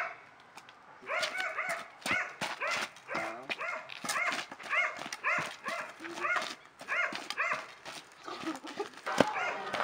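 Dog barking in a steady series, about three barks a second, with one sharp crack near the end.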